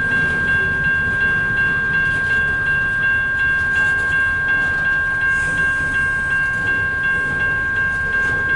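Grade-crossing warning bell ringing steadily, about two and a half strikes a second, over the low rumble of a slow freight train's cars rolling through the crossing.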